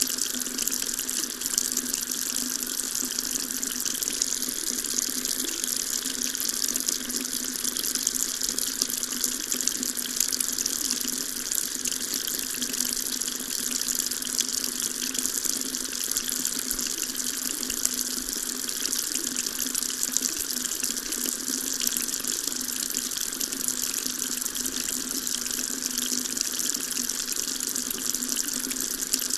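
Water tap running steadily, a constant stream of water splashing into a sink.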